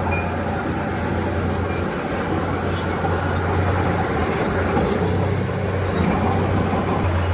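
Heavy diesel earthmoving machinery, most likely the Komatsu D31P bulldozer, running with a steady low engine drone over a rumbling noise of work.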